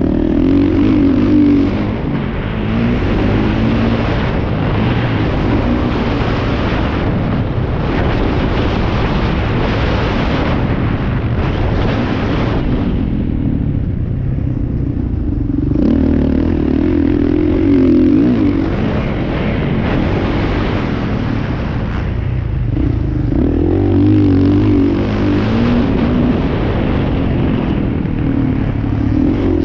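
Motocross bike engines running hard, revving up and falling back continuously, easing off for a couple of seconds about halfway through before opening up again.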